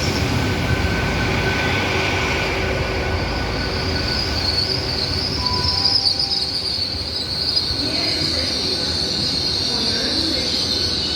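Hitachi Class 802 train running into the platform, its steady rumble joined about three and a half seconds in by a continuous high-pitched squeal as it slows.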